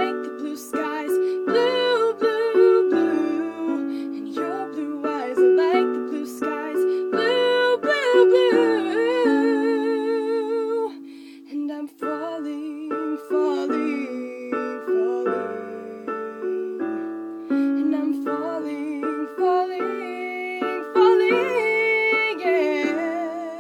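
A solo voice singing a slow original song over sustained piano chords, the voice holding long notes with vibrato.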